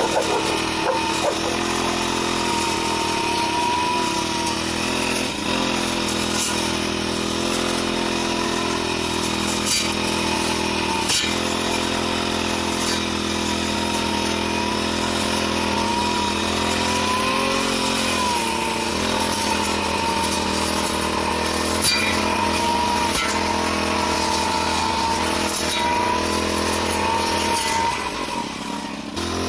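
Engine of a petrol grass-cutting machine running steadily, its pitch wavering slightly as it works, with a few sharp ticks; it drops off briefly near the end.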